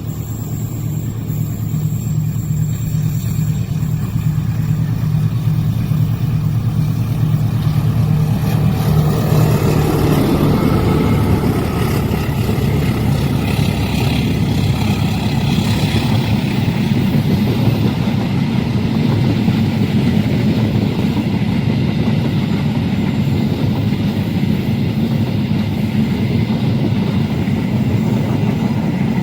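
A diesel-hauled train passing at a level crossing. The locomotive's engine drone grows louder for the first ten seconds or so, then the train's wheels rumble steadily on the rails as it goes by.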